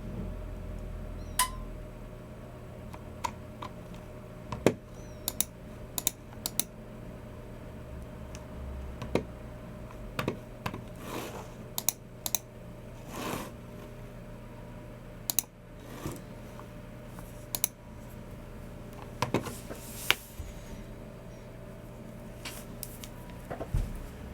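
Keystrokes on a Logicool MX Keys Mini low-profile scissor-switch keyboard, coming in short, irregular runs with gaps between them, over a faint steady hum.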